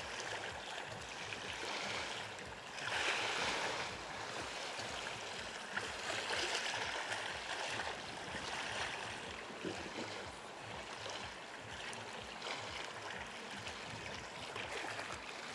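Sea waves washing onto the beach, a steady rush of surf that swells now and then, loudest about three seconds in.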